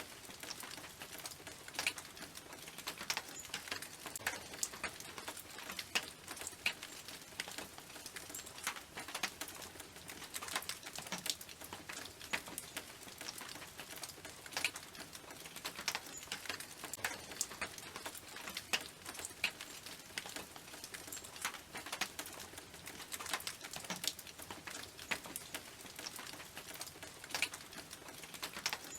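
Rain pattering on a tin roof: many irregular, sharp ticks of drops striking the metal over a steady hiss of falling rain.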